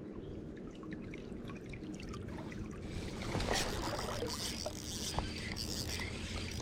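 Creek water sloshing and splashing around a wader's legs, louder from about halfway through, with small clicks and one sharp knock about five seconds in.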